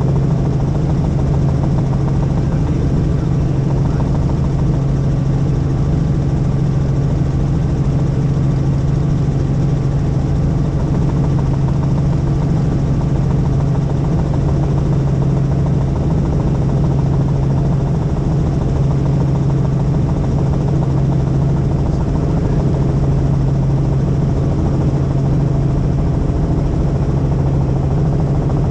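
Helicopter in flight: a steady, loud drone of engine and rotor with a strong low hum that does not change.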